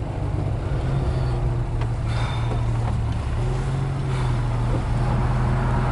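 1973 Mercedes-Benz 280's carbureted twin-cam straight-six running at a steady idle, heard from inside the cabin as an even, low hum.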